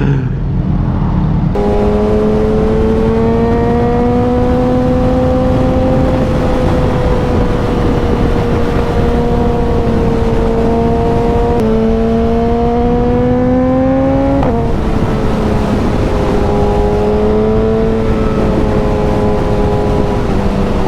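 Suzuki motorcycle engine running at road speed, its pitch slowly rising and falling with the throttle, with a sudden drop in revs about fourteen and a half seconds in, over a steady rush of wind and road noise.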